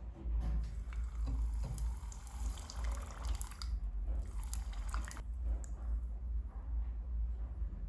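Water running and splashing, as from a tap, for about five seconds, then easing off.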